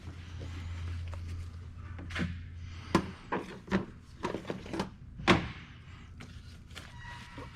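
A low steady hum for about three seconds, then a series of sharp knocks and clunks, the loudest about five seconds in.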